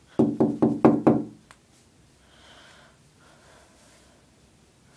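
A quick run of about six knocks on a window pane in just over a second, each with a short ringing tone, done to provoke a bird that keeps flying at the glass. Faint breaths follow.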